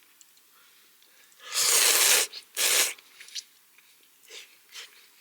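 A person slurping ramen noodles: two loud, hissing slurps about two seconds in, followed by faint chewing.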